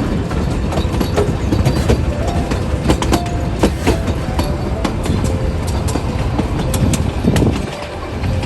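Puffing Billy's narrow-gauge steam train running on the rails: a steady rumble with frequent clicks and rattles from the wheels and carriages, and a few short squeaks.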